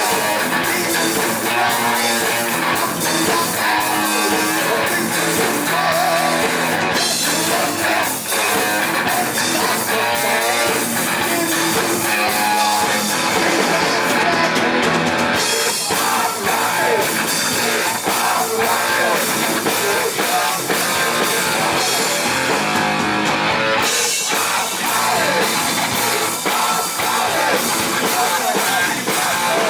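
Heavy metal band playing live: electric guitars and drum kit, loud and continuous.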